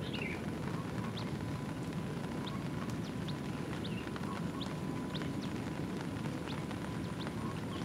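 Outdoor ambience in heavy rain and wind: a steady low rushing noise, with short high chirps dotted through it at about two a second.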